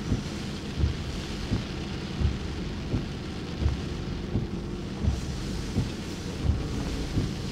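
Heavy rain on a car, heard from inside the cabin, with a low thump about every 0.7 seconds, the steady beat of windshield wipers running fast.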